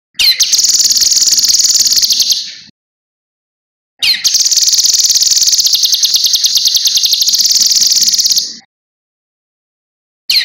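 Cucak kinoi bird singing two long, rapid, high-pitched trills, each opening with a short falling note: the first lasts about two and a half seconds, the second about four and a half, and a third begins at the very end.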